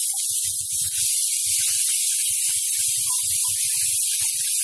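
Wet ground garlic-tomato paste sizzling in hot oil in a kadhai, a steady loud hiss just after it has gone into the tempered cumin and mustard seeds, with soft low knocks from time to time.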